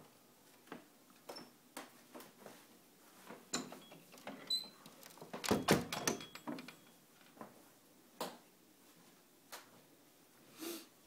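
A door being handled and opened: a series of short clicks and knocks, loudest about halfway through.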